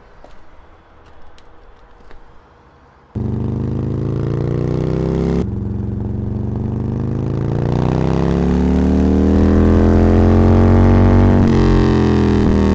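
Quiet outdoor background with a few light clicks, then about three seconds in a motorbike's engine cuts in loud, running with its pitch rising and falling as it accelerates along the road.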